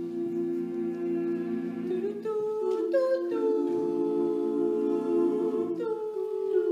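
Male a cappella group humming sustained chords, shifting to a new chord a few times.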